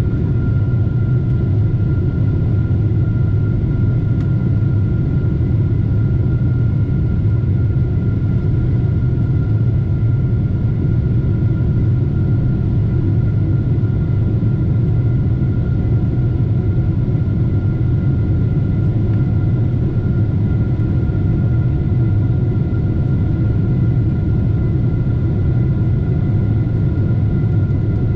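Steady jet-engine rumble heard inside the cabin of a Boeing 747-8, its GEnx turbofans running evenly with a faint high whine held on a few fixed notes.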